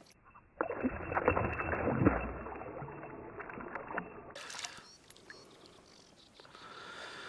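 Water splashing and sloshing beside a boat, busiest and loudest in the first two seconds, then dying down to a faint wash.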